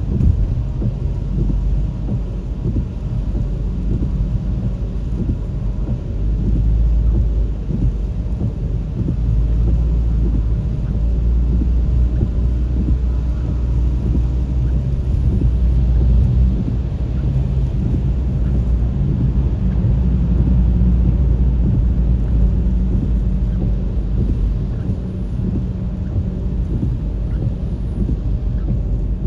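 Steady low rumble of road and engine noise from a vehicle driving on the road, swelling and easing a little over time.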